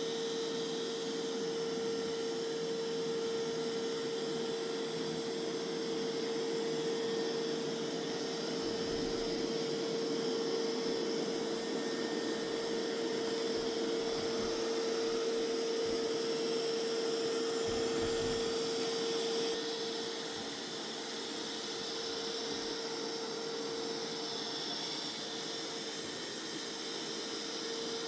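Mova Z60 robot vacuum running on a rug: a steady suction-fan noise with a constant whine. About two-thirds of the way in it gets slightly quieter and the whine fades, and the whine comes back near the end.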